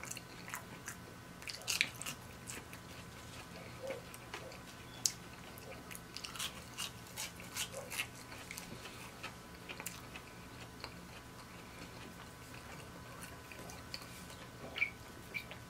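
Close-miked biting and chewing of crispy seasoned fries: irregular wet mouth clicks and crunches, with a sharper click near the end.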